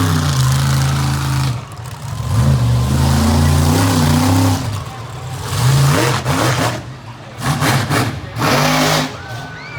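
Monster truck engine revving hard in repeated bursts, its pitch climbing and dropping with the throttle, with short lulls between the bursts.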